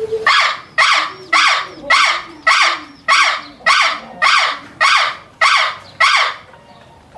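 A bird giving a series of about eleven harsh calls, evenly spaced at roughly two a second.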